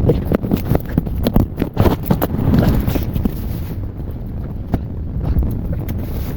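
Wind buffeting the microphone in a low rumble, with many irregular small knocks and clicks throughout.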